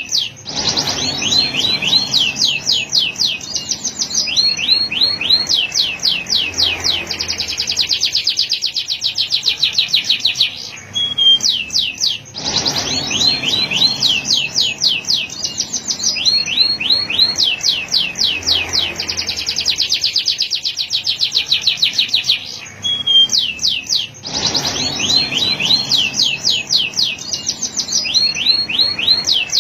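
Male canary singing a long song of rapid trills, fast runs of the same note repeated. The same song passage recurs about every twelve seconds.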